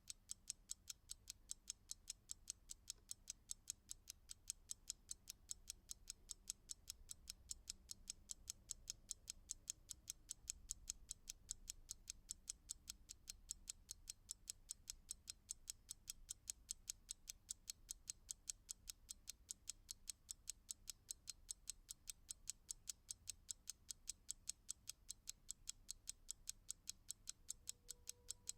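Clock ticking, quiet and perfectly even, several sharp ticks a second.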